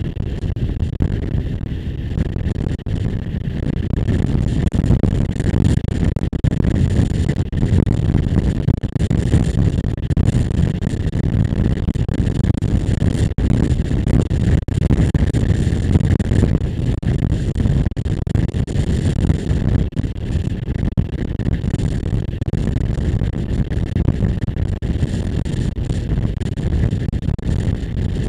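Motorcycle riding along at a steady pace: engine and road noise mixed with wind rushing over the microphone.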